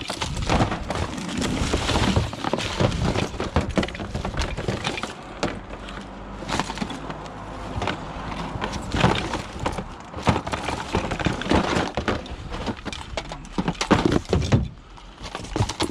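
Scrap being handled and pulled apart: a long run of irregular clattering knocks and cracks, several sharper ones standing out.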